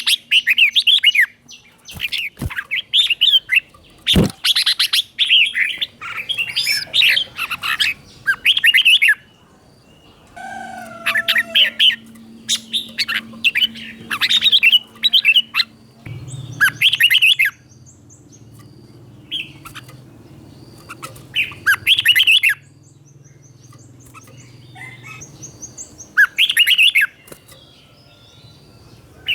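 Red-whiskered bulbul singing short, clear warbled phrases one after another with brief pauses, in the doubled ('เบิ้ล') song style that keepers play to young bulbuls to copy. Two sharp clicks come in the first few seconds.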